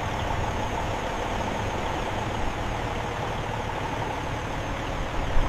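Engine of heavy machinery running steadily.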